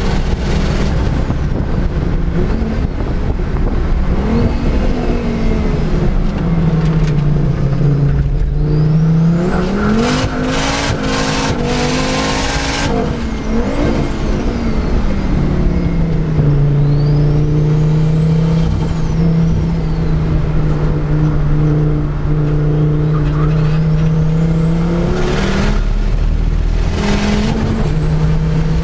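Volvo 850R's turbocharged inline-five heard from inside the cabin under hard driving on track, revs climbing and dropping through gear changes and corners, with a high whine rising and falling at times. The car is running without a working clutch after a clutch pump failure. A loud rushing noise swells in about ten seconds in and again near the end.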